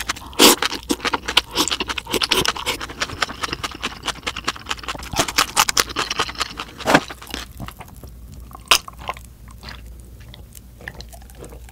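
Close-miked eating of a mouthful of spicy mixed buckwheat noodles: wet chewing and mouth clicks, dense for the first seven seconds and then sparser. Near the end, fainter swallowing as water is drunk from a glass.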